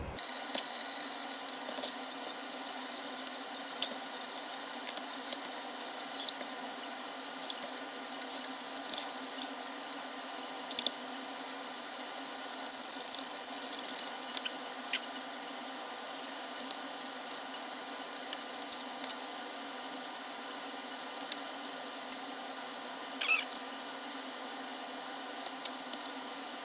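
Scattered light clicks and small knocks of plastic casing parts and screws being handled as a Seadoo Sea Scooter is put back together, over a steady hiss, with one brief squeak near the end.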